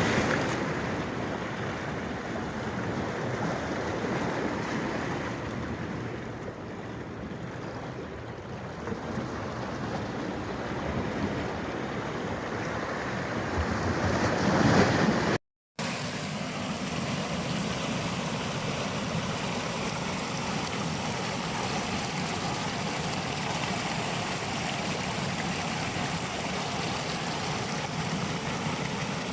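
Steady rush of flowing water. About halfway through, the sound swells briefly, then cuts out for an instant at an edit before the rushing carries on, more evenly.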